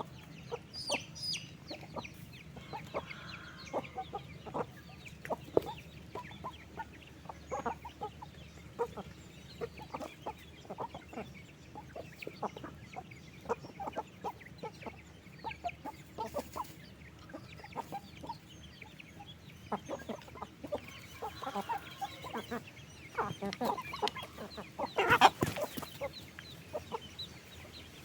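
A flock of chickens clucking continuously, many short calls overlapping, with one louder, longer squawk about 25 seconds in.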